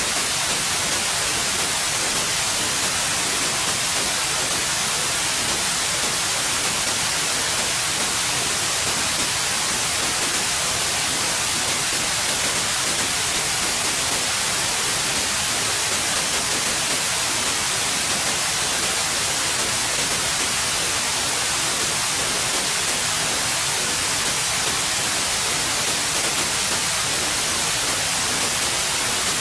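Steady white noise: an even, continuous hiss, brightest in the treble, with no change in level.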